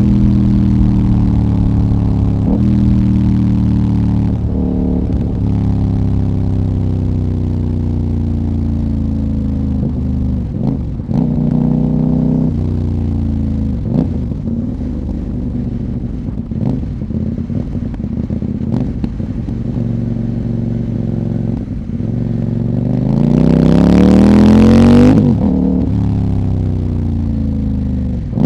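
De-catted CFMOTO 800NK parallel-twin running through its stock muffler while ridden. The engine note falls slowly for most of the stretch, with sharp pops on the overrun. Near the end it revs hard, rising in pitch to its loudest, then cuts off suddenly.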